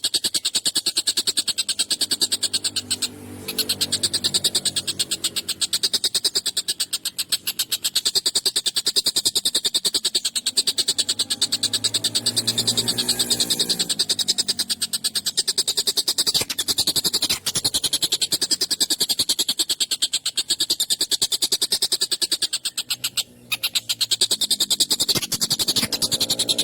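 Stork-billed kingfisher (tengkek buto) calling in a fast, continuous rattle, with a lower, drawn-out call that rises and falls three times.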